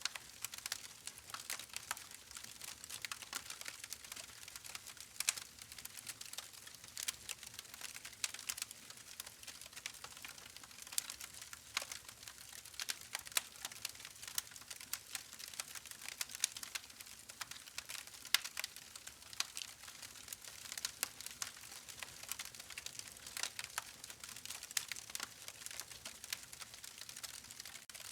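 Campfire crackling steadily: many irregular sharp pops and snaps over a faint hiss, with no let-up.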